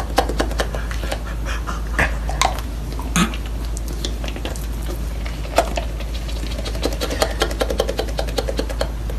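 A dog, with a dense, uneven run of short clicks throughout over a steady low hum.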